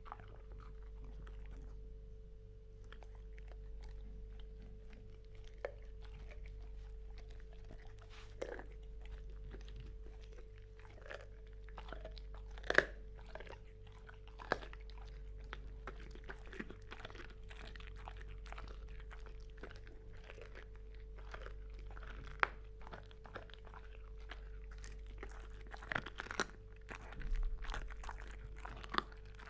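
A dog chewing and crunching: irregular sharp crunches and clicks, sparse at first and thicker near the end, over a steady low hum.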